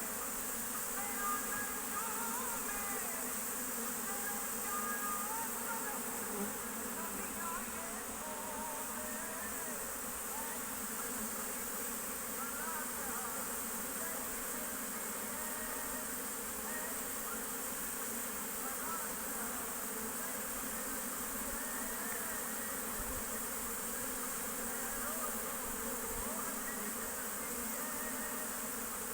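Honey bees buzzing as a swarm at a beehive, a steady drone with the buzzes of single bees rising and falling as they fly past.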